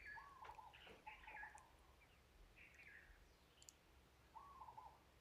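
Near silence, with faint bird chirps, short curved calls repeating every second or so, and a couple of tiny clicks.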